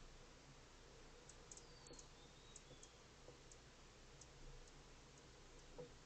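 A small bird's faint, high chip notes: about a dozen sharp ticks at irregular intervals, with a thin whistle falling in pitch about two seconds in.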